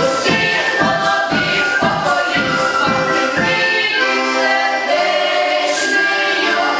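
A choir singing with instrumental backing: a steady beat for the first half or so, then long held chords.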